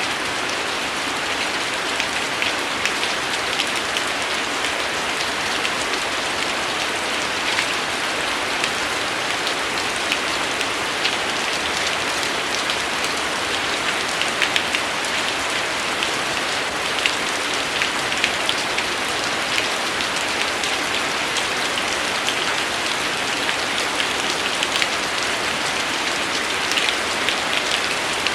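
Steady rain falling on a surface: an even hiss of rain dotted with the sharper ticks of individual drops.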